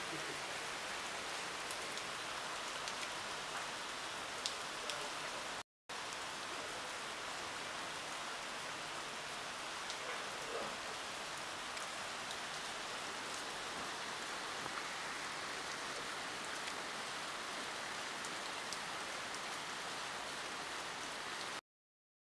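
Steady rain falling: an even hiss with a few sharper drip ticks. It cuts out abruptly for a moment just before six seconds in, and again near the end.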